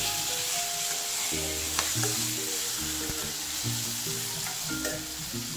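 Green chillies, garlic and whole tomatoes sizzling in hot oil in a steel kadhai, stirred with a steel spatula that scrapes and clicks against the pan now and then. Background music with held notes plays under the sizzle.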